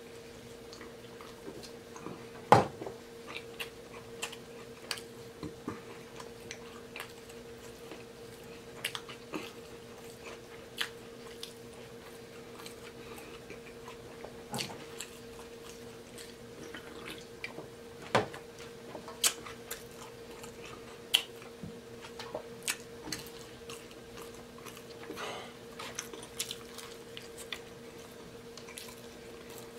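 Close-miked eating sounds: a man chewing and smacking through a burger, with wet mouth clicks scattered irregularly throughout and one louder sharp click or knock about two and a half seconds in. A faint steady hum runs underneath.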